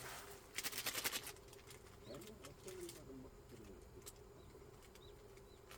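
A quick run of sharp clicks and crackles about half a second in, then faint low cooing calls from a bird.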